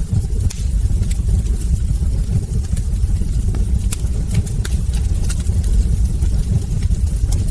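Wood fire burning in a fireplace: a steady low rumble with frequent sharp crackles and small pops from the burning logs.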